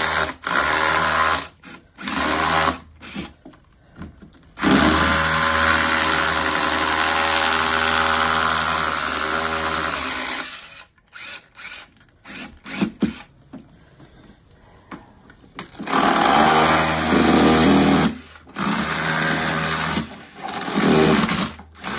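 Handheld electric power tool running in bursts. Its motor whines up to speed, runs for a few seconds and stops, with the longest run lasting about six seconds and shorter ones near the start and end.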